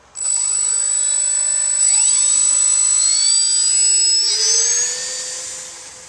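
RC scale model Cessna 390 throttling up for its takeoff run. A high motor whine starts suddenly and climbs in pitch about two seconds in, then fades near the end as the plane pulls away.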